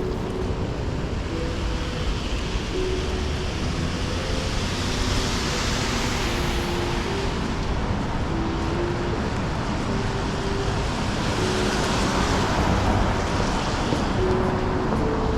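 Traffic on a wet city road in the rain: a steady wash of tyre and engine noise, with vehicles hissing past on the wet asphalt about five seconds in and again about twelve seconds in.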